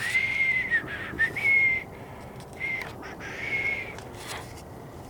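A high whistling tone, held in four short stretches under a second long, the first two the longest.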